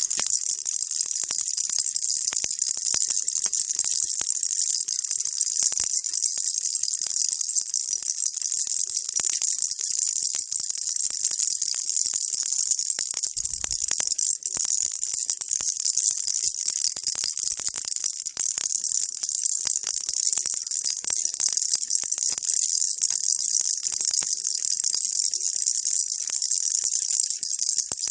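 Baby rattle shaken continuously: a dense, steady shaking of small beads with no break.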